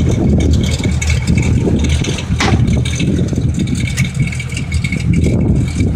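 1982 Cummins V555 marine V8 diesel running steadily, warming up after a cold start, with a faint high whine over its low running sound. A short sharp click comes about two and a half seconds in.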